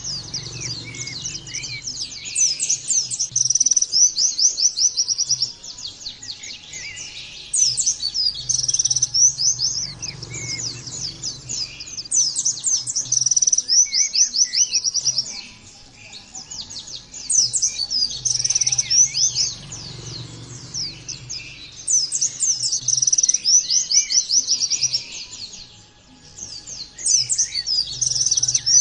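Pleci (white-eye) song: fast, chattering trills in repeated bursts of a few seconds each, with short pauses between phrases.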